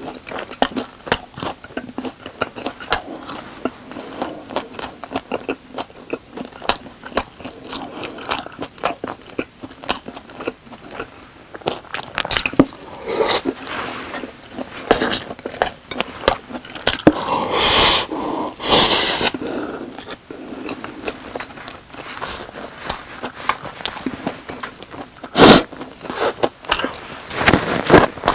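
Close-miked chewing and biting of sauced boneless chicken and rice, a steady run of wet mouth clicks and crunches, with two louder noisy stretches around the middle and a sharp loud click near the end.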